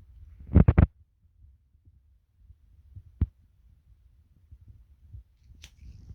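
A dog gnawing on a dog chew: a quick cluster of loud knocks just under a second in, a single sharp click a little after three seconds, and faint low thumping between.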